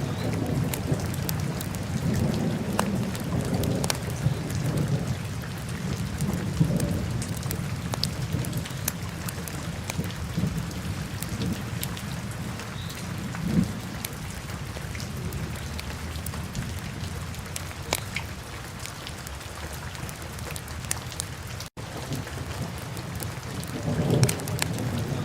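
Wood fire burning in a fireplace: a steady low roar of the flames with many sharp crackles and pops from the burning logs. The sound cuts out for an instant near the end.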